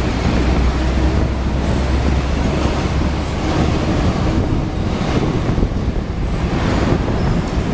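A Hong Kong double-deck electric tram running, with a steady rumble of wheels and running noise and wind on the microphone. A low motor hum drops away about three seconds in.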